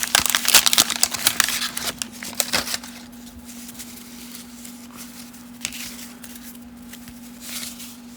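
Wax-paper wrapper of a 1990 Topps baseball card pack being torn open and crinkled for about the first three seconds, followed by softer rustles of the cards being handled.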